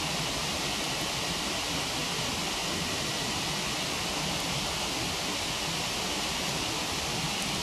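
A waterfall rushing steadily, with a couple of faint crackles from a wood fire.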